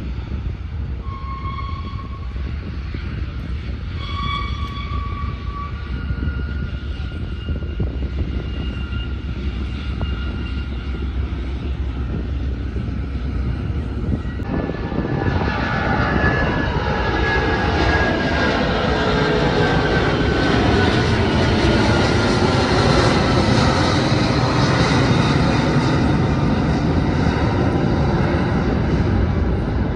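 Airplane engines passing. A steady low rumble grows louder about halfway through, as a whine slowly falls in pitch, then eases slightly near the end.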